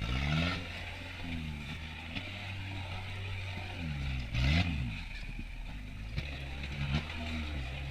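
Kubota turbo diesel engine in a Suzuki Samurai rock crawler, revving up and falling back several times between stretches of steady low running, with a brief harsh noise about four and a half seconds in.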